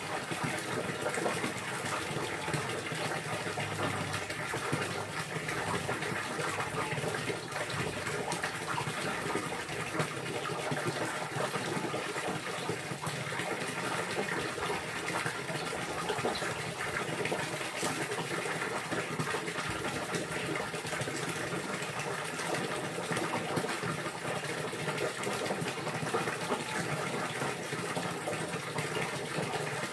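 Steady gushing of running water, an even, unbroken splashing rush.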